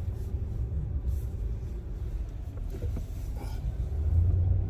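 Car driving along, a steady low rumble of engine and road noise that gets a little louder near the end.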